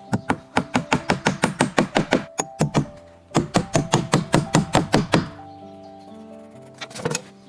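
Rapid knocking, about five sharp strikes a second, in two runs split by a short pause, with a few more knocks near the end, over soft background music.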